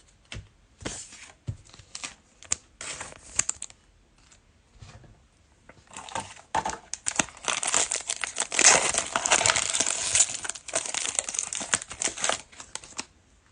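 A foil trading-card pack wrapper being torn open and crinkled, with the cards handled. A few scattered crackles come first, then about six seconds of dense, continuous crinkling that stops shortly before the end.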